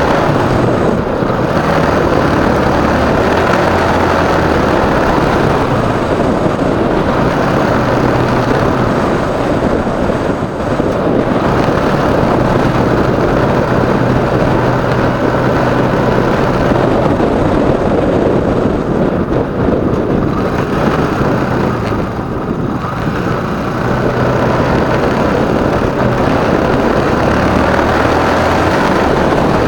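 Motorcycle engine running steadily during a ride, its low hum stepping up and down in pitch a few times, under a dense steady rushing noise.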